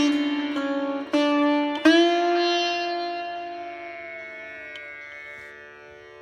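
Music on a plucked string instrument: three notes in about the first two seconds, the last bending up in pitch, then left to ring and fade away slowly.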